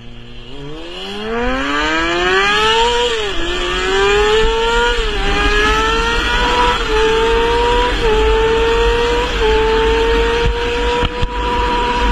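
Motorcycle engine accelerating hard up through the gears: the pitch climbs, drops sharply at each of about five upshifts, then holds steady at cruising speed.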